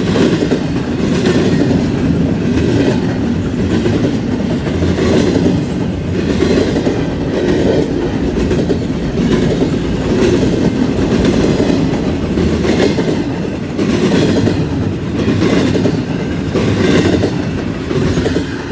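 Double-stack container cars of a freight train rolling past at speed: a steady rumble of steel wheels on rail with repeated clickety-clack. Near the end the sound begins to fall away as the last car goes by.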